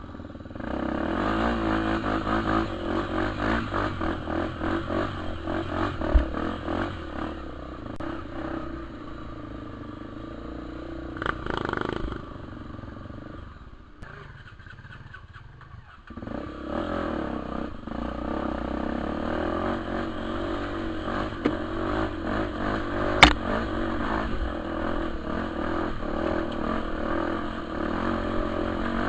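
Dirt bike engine running and revving, its pitch rising and falling with the throttle. The engine drops low for a couple of seconds midway, and a few sharp knocks sound over it.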